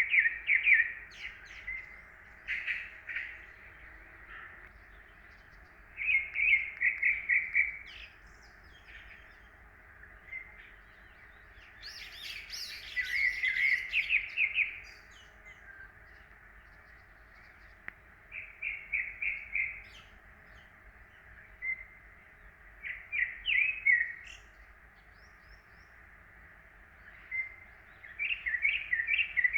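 Songbirds singing in a spring woodland: short phrases of quick repeated chirps every few seconds, with a longer, busier burst of song about twelve seconds in.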